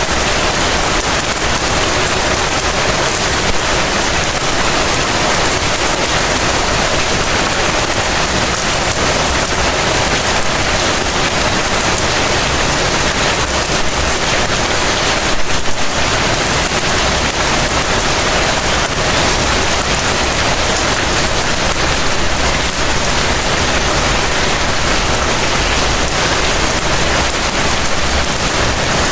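Heavy rain falling steadily, a dense, even hiss of rainfall with a brief surge about halfway through.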